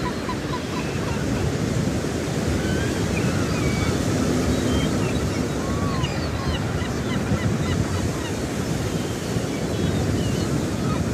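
A flock of budgerigars chattering, with many short warbling chirps over a steady rushing wash of noise.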